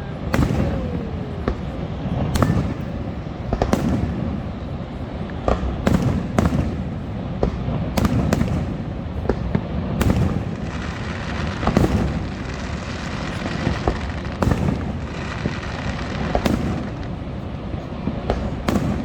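Fireworks going off: sharp bangs and pops at irregular intervals, about one or two a second, over a steady low rumble.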